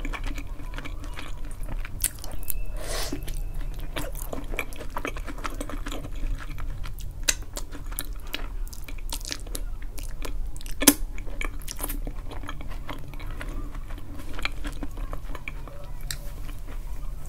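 Close-miked chewing of oven-baked eggplant with cheese and garlic: soft, wet mouth sounds and small clicks throughout, with one sharp click about eleven seconds in. Paper napkin rustling near the end.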